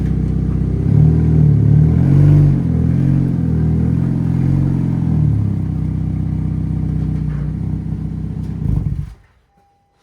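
2012 Honda Civic engine running loud through an exhaust leak in the rusted pipe just ahead of the muffler. Engine speed rises and falls for a few seconds, then settles to a steady idle before the engine is switched off about nine seconds in.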